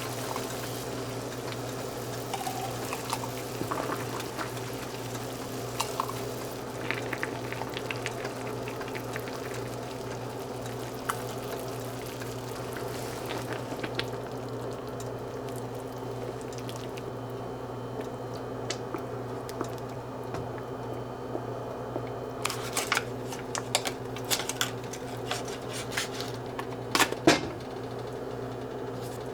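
Kitchen cooking sounds: a steady low hum under a hiss of liquid that fades about halfway through, with scattered clinks of dishes and utensils. A run of sharper clatters comes near the end.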